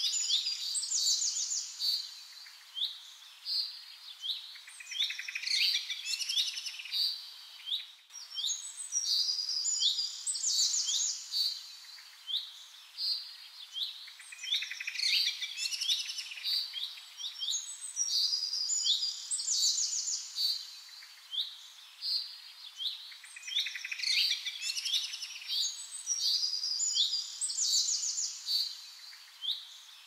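Songbirds singing: bursts of high chirps and trills, each two to three seconds long, recurring every four to five seconds.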